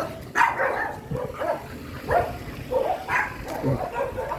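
A dog barking in a run of short, repeated barks, about two a second.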